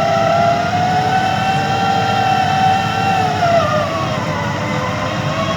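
SANY SR150C rotary drilling rig running, a steady high whine over the low engine noise, the whine dropping a little in pitch about four seconds in.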